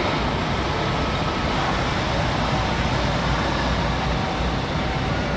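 Semi truck's diesel engine running steadily, a constant low rumble with broad road-type noise over it.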